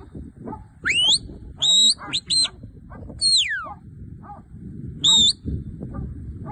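A shepherd's whistle commands to a working sheepdog: a series of short, clear whistle notes, some rising and some falling, over a low, rough background.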